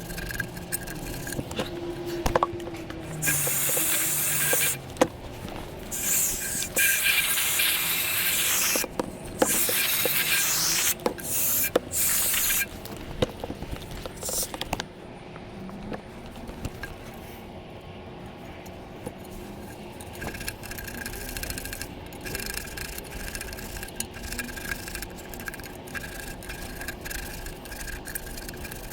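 Several bursts of spraying hiss, each lasting one to two seconds and stopping abruptly, with rubbing and scraping between them during the cleaning of a furnace blower wheel and cabinet.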